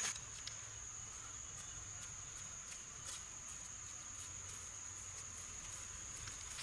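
Insect trilling: one steady high-pitched note held throughout, cutting off at the end, with a few faint ticks.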